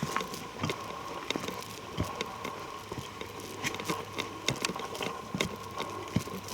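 Footsteps crunching over leaf litter, twigs and roots: a string of irregular clicks and crackles, over a faint steady high tone.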